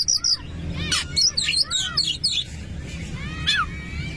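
Oriental magpie-robin singing: a quick run of varied chirps and whistles, then a long, steady, held whistle near the end, over a low steady background noise.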